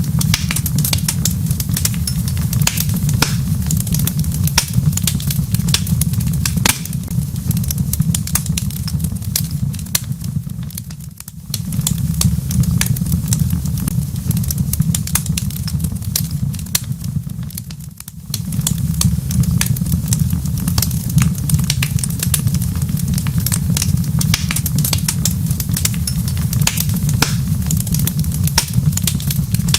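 Wood fire burning in a fireplace, crackling with frequent sharp pops over a steady low rumble. The sound briefly dips twice, about a third and about three-fifths of the way through.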